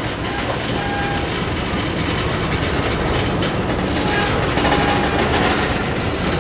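Freight cars rolling along the rails in a steady rumble and rattle of wheels, with a few faint, brief wheel squeals.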